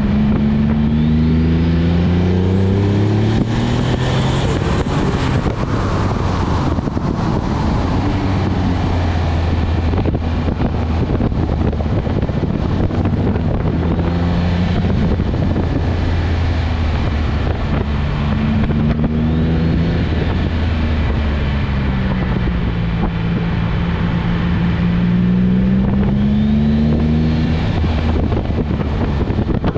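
Twin-turbo Nissan 350Z's V6 engine heard from onboard while driving, its note rising and falling again and again as the car accelerates and slows. Underneath is a steady rushing noise.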